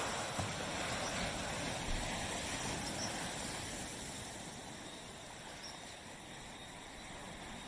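Surf on a beach: the wash of a broken wave fades slowly away into a quieter lull.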